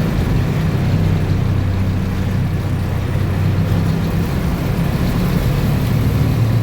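A bus's diesel engine running steadily with a low hum, heard from inside the cab, with road noise.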